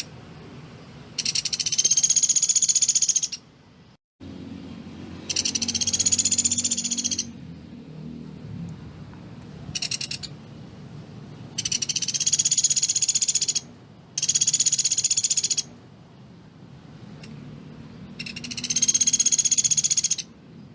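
Pelatuk beras woodpecker calling in high, rapid rattling trills, the tightly spaced 'shot' calls it is kept for; about six bursts of a second or two each, one of them short, with pauses between.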